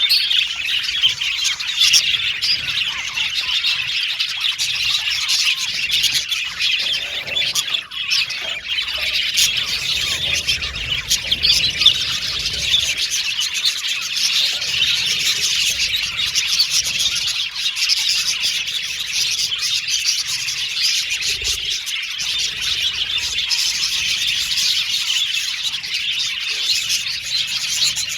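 A flock of budgerigars chirping and warbling together in a steady, dense chatter with occasional squawks.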